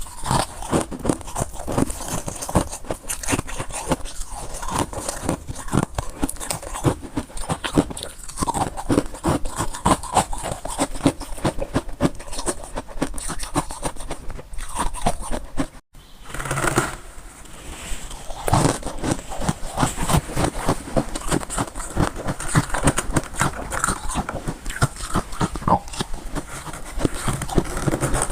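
Close-miked crunching and chewing of crunchy white freezer frost: a rapid, continuous stream of crisp crunches, broken by a brief gap about two-thirds of the way through.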